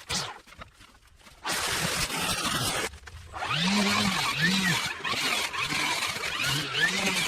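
A power tool cutting through overgrowth, its motor pitch rising and falling in short arches several times over a rough cutting noise. It starts about a second and a half in, after a near-quiet pause.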